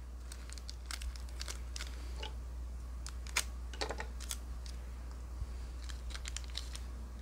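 Pokémon trading cards and a foil booster-pack wrapper being handled: scattered sharp clicks, crinkling and tearing as a pack is opened and the cards are sorted. A steady low electrical hum sits underneath.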